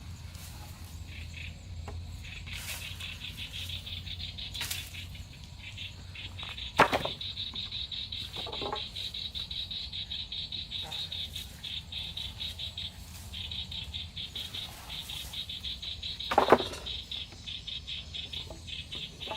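Crickets chirping in a steady, fast pulse, over a low steady hum. Two sharp knocks cut through, about a third of the way in and again near the end.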